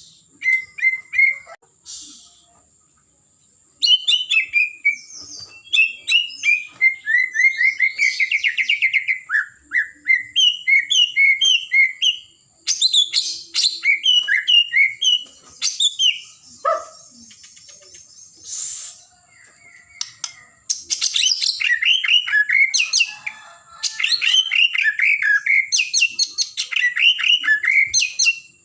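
White-rumped shama (murai batu) singing in full voice: varied phrases of rapid whistled notes and trills, some repeated in quick runs, broken by several short pauses.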